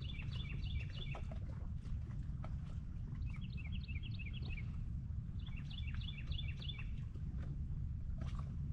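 A songbird singing three quick phrases of rapid, repeated chirping notes, each about a second long, over a steady low rumble.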